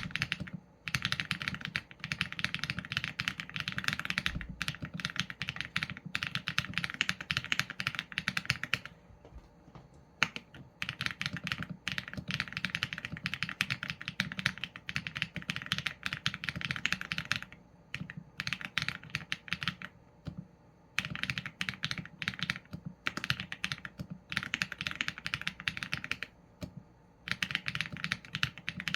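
Continuous typing on a Qsenn A75 mechanical keyboard with Leobog Graywood v4 linear switches and PBT keycaps: rapid runs of keystrokes broken by brief pauses, the longest a second or two near the middle.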